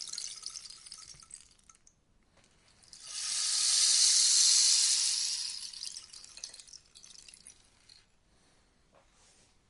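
Rainstick: the end of one pour trickles out in the first couple of seconds, then after a short pause a second pour of its pebbles cascades in a rain-like hiss that swells to its loudest around the middle and trickles away.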